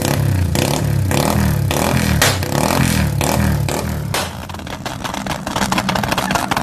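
Modified Yamaha Y15ZR's single-cylinder engine revved in quick repeated blips, about two a second, then dropping back to idle about four seconds in.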